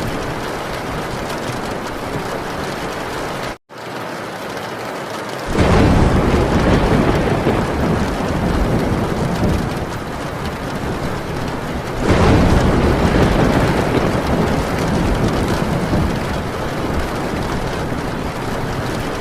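Heavy rain falling steadily on a metal tin roof, with two long rolls of thunder: one starting about five and a half seconds in, the other about twelve seconds in. The sound cuts out for an instant about three and a half seconds in.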